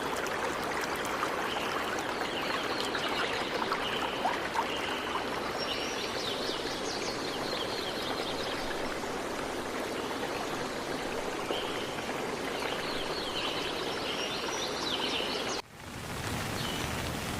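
Flowing stream water with small birds chirping over it in short, scattered calls. Near the end the sound cuts off abruptly and switches to a steadier rushing noise of rain.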